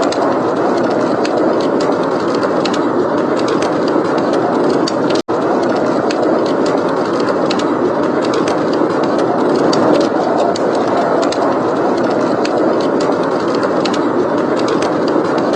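Heavy blizzard wind blowing in a steady, dense rush, with frequent small crackles and pops from a wood fire throughout. The sound drops out for an instant about five seconds in.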